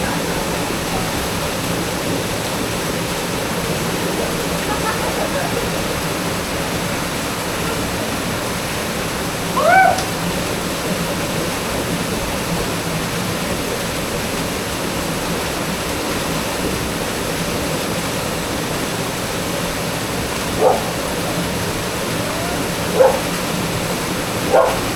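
Steady rushing of a waterfall. One short rising call about ten seconds in and a few more brief calls near the end stand out above it.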